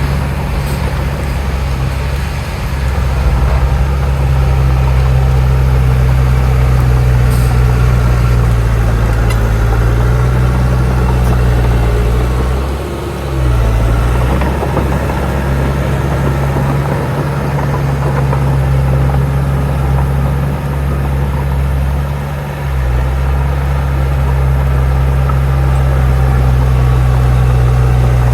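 Heavy diesel engine of earthmoving machinery running steadily under load, with two brief dips in engine speed, one a little before halfway and another about three-quarters through.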